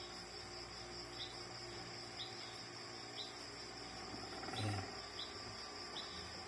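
Faint, steady high-pitched insect trill with short chirps about once a second, and a soft low bump about four and a half seconds in.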